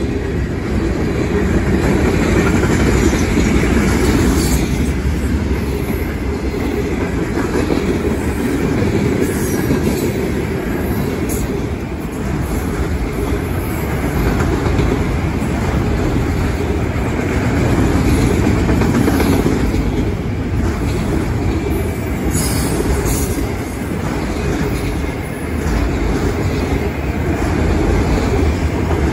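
Freight train cars, autoracks and covered hoppers, rolling past at speed close by: a steady, loud rumble of steel wheels on rail.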